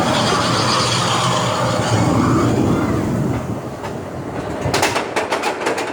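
Seven Dwarfs Mine Train roller coaster train rolling along its track with a steady rumble. Near the end comes a fast run of even clicks, about eight to ten a second.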